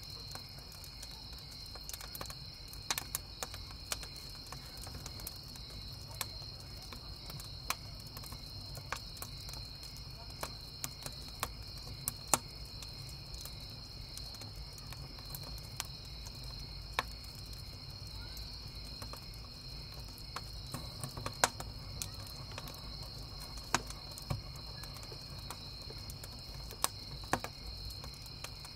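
Wood campfire crackling, with sharp pops at irregular intervals, over the steady chirping of crickets.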